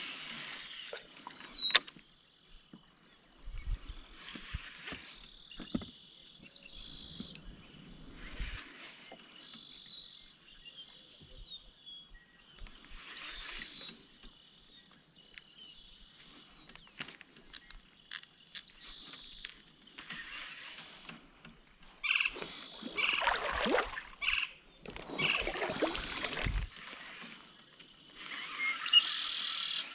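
Small birds chirping again and again over a steady high-pitched trill, with several louder bursts of rushing noise, the strongest late on.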